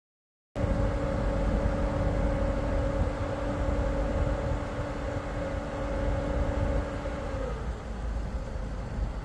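Steady low rumble of a vehicle running, with a steady two-note hum over it that dips slightly and stops about three-quarters of the way through. The sound cuts in abruptly about half a second in.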